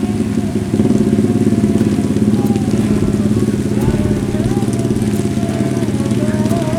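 Engine running steadily close by, with a faint wavering voice above it.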